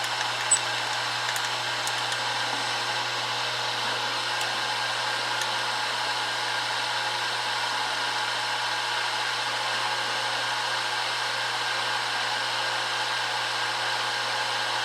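Milling machine spindle running steadily with an edge finder chucked, a constant motor whir with a low hum. A brief click about half a second in.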